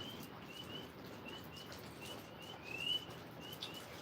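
Tree frogs calling: short rising peeps, several a second, over the steady hiss of rain.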